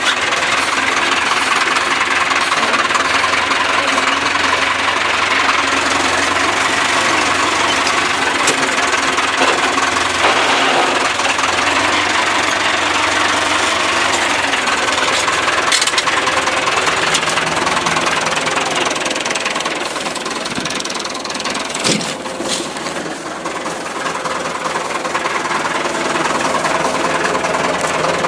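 Massey Ferguson tractor engine running steadily under load while working the soil. It eases off a little about twenty seconds in, with one sharp click a couple of seconds later.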